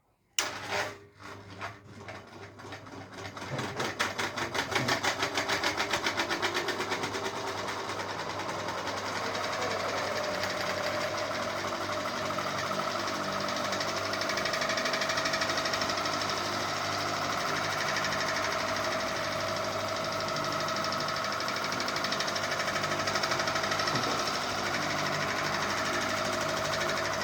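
Ceiling fan starting up: a rhythmic beat that speeds up over the first several seconds, then settles into a steady whir with a held tone.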